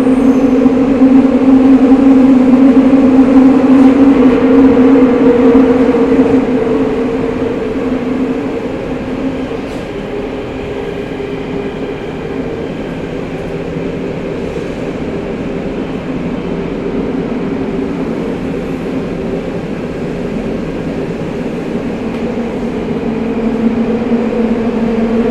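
Onboard running sound of a Tokyo Metro 05 series subway train fitted with a Mitsubishi IGBT inverter: a steady motor hum over wheel and running noise. It is loud for about the first six seconds, then settles to a quieter hum, and grows louder again near the end.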